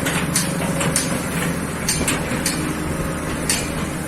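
Hitachi ZX excavator's diesel engine running steadily, with irregular sharp metallic clanks over it.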